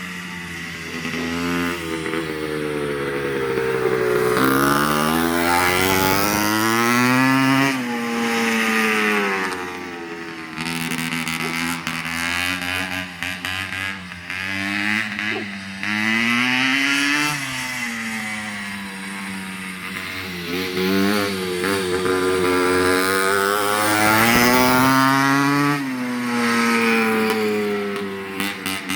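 1970 CZ 250 motocross bike's freshly rebuilt two-stroke single-cylinder engine, ridden hard. Its pitch climbs and drops again and again as it accelerates and backs off, with a rapid crackle of engine noise near the end.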